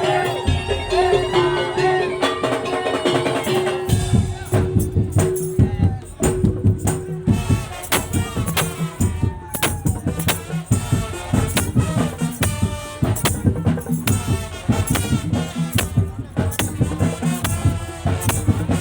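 Madurese tong-tong ensemble playing: a held melodic line at first, then from about four seconds in dense, fast drumming and rattling percussion.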